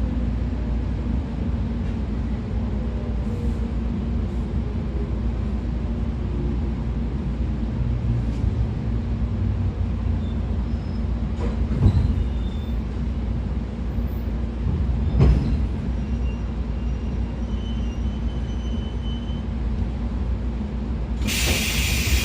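Interior running noise of a 113 series motor car at speed: a steady low rumble from wheels, gearing and MT54 DC series-wound traction motors, with two sharp knocks from rail joints midway. Near the end a loud high hiss suddenly cuts in.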